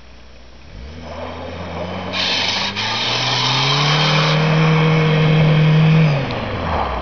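A VW Jetta's 1.6 diesel engine revs up hard from about a second in and holds high revs while the car slides sideways through snow, then drops off shortly before the end. A harsh hiss rides over the middle stretch.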